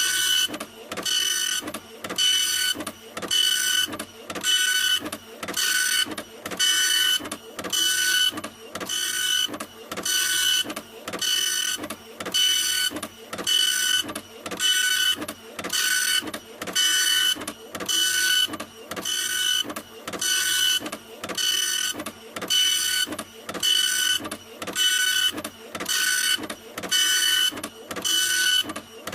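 Printer printing in a steady repeating rhythm, a little more than one stroke a second, each stroke carrying a high whining tone over a hiss.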